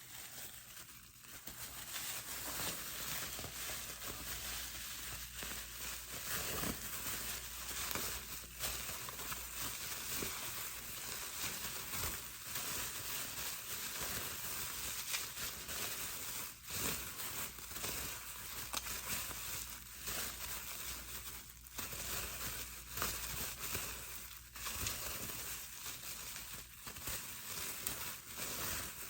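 Plastic bubble wrap being squeezed and handled: continuous crinkling and crackling with many small sharp pops.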